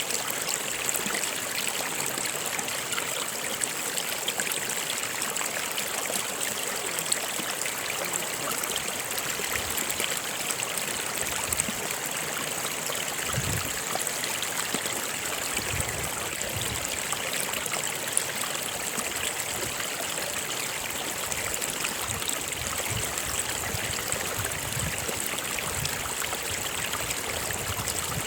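A stream running steadily over rocks, in a continuous rush of water, with a few soft low gurgles about halfway through.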